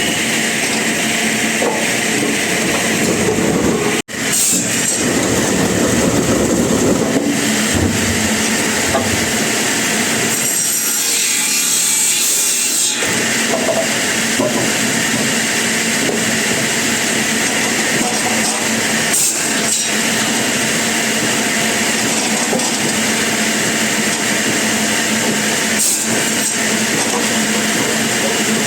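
Sawmill saw running and cutting through wood, a loud steady grinding noise over a motor hum, with a brief drop-out about four seconds in.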